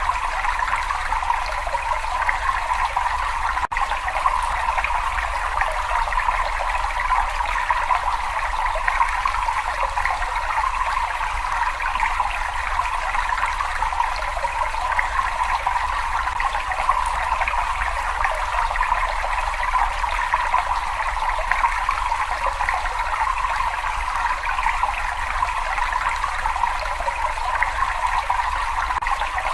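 Water running and trickling steadily in a cave, an even splashing wash without pauses. There is a split-second dip in the sound about four seconds in.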